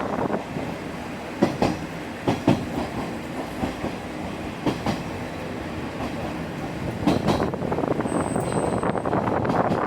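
Ex-JNR KiHa 30/37/38 diesel railcar train running along the line, a steady running rumble broken by wheels clacking over rail joints, three times in quick double clacks.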